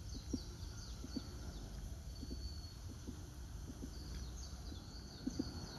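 Outdoor ambience: a steady low rumble with small birds calling in thin, high chirps and short held whistles, and soft irregular knocks throughout.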